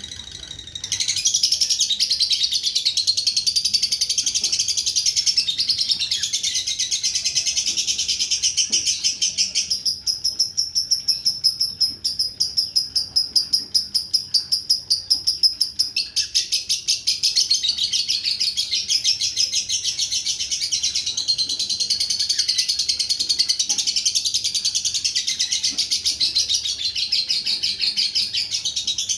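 Lovebird singing one unbroken, high-pitched, rapidly pulsed trill in the long-duration 'ngering' style. It starts about a second in and runs for nearly half a minute. From about ten to sixteen seconds in it narrows to a clearer, purer pulsed tone, then returns to a broader, buzzier trill.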